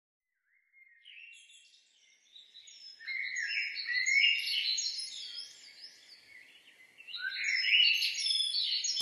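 Songbirds chirping and singing in quick runs of short rising and falling notes. The birdsong starts about three seconds in after a near-silent gap, eases off around the middle, then picks up again, and it runs straight into an acoustic guitar track, so it is part of the soundtrack.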